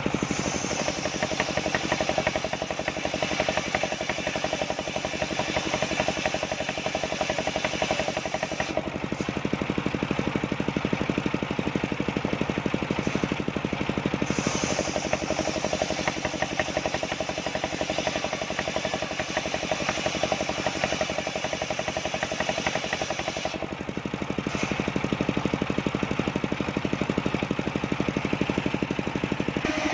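Engine of a homemade circular sawmill running steadily with a fast, even beat. Its tone changes a few times.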